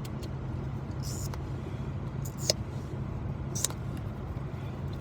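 Steady low hum inside a parked car's cabin with the engine and air conditioning running, broken by a few small sharp clicks.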